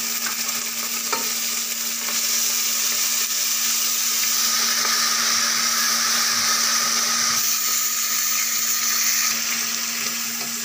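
Freshly added tomatoes sizzling in hot ghee with browned onions while a spoon stirs the pan, a steady frying hiss with a small click about a second in. A steady low hum runs underneath.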